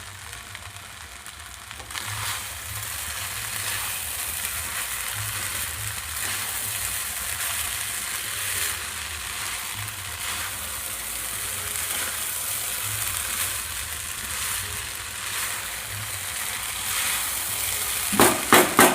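Rice frying in ghee in a kadai: a steady sizzling hiss that gets louder about two seconds in, with a few sharp knocks near the end.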